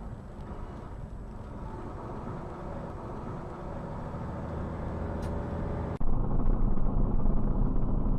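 Steady engine and road rumble of a vehicle on the move. About six seconds in it cuts abruptly to a louder, deeper rumble.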